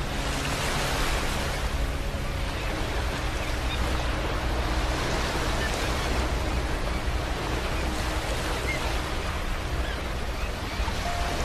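Ocean waves washing onto a beach, the surf swelling and easing about every four seconds.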